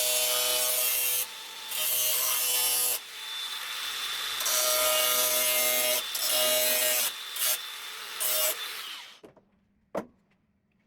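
Handheld electric power tool working the steel of a car door repair panel, running in about six bursts of a second or so with a motor whine under the grinding noise. It stops about nine seconds in, and a single sharp click follows about a second later.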